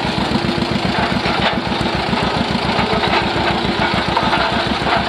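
1938 John Deere A's two-cylinder engine running hard while pulling, a steady, rapid beat of exhaust pulses.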